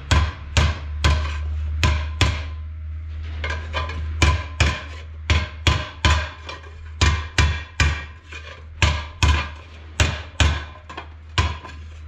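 Hammer striking a gearbox casing over and over, about two blows a second, knocking back metal that bolt tightening has pushed inward around the bolt holes. A steady low hum runs underneath.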